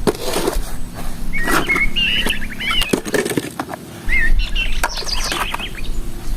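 Small birds chirping in quick, wavering calls, with scattered clicks and knocks from plastic toys being handled.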